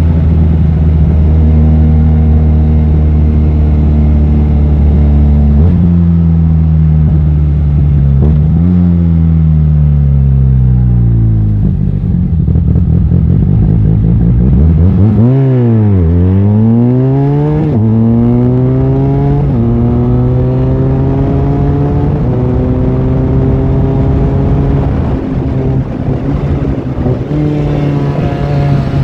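Benelli 502C's parallel-twin engine under way. It runs steady at first, then drops in pitch as it slows about ten seconds in. A quick dip and rise in revs comes around the middle, then it climbs through the gears with a step in pitch at each shift.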